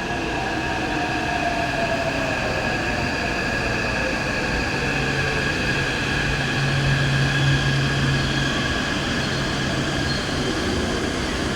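Taipei Metro C381 electric multiple unit running into a station and slowing, its motors whining in several tones that fall slowly in pitch. A low hum joins about five seconds in.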